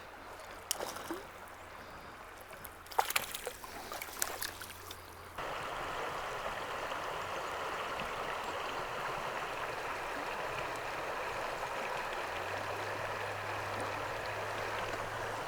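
Flowing water of a mountain trout stream, with a few sharp clicks and knocks in the first five seconds. At about five seconds it switches abruptly to a steadier, louder rush of water.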